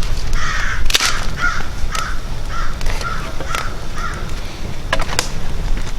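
A bird cawing in a run of about eight short harsh calls, roughly two a second, over low wind rumble, with a couple of sharp cracks near the end.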